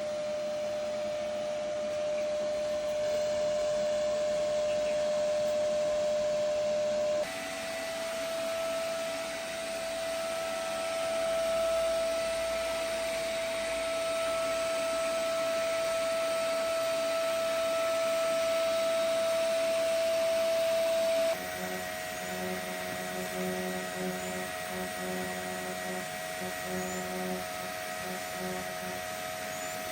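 TIG welding arc on a pipe hot pass at about 140 amps: a steady electric hum with a hiss. The pitch of the hum steps up abruptly twice, and a low pulsing joins it for the last third.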